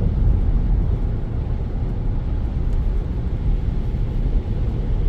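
Steady low rumble of road and engine noise heard from inside a car's cabin while driving on the freeway.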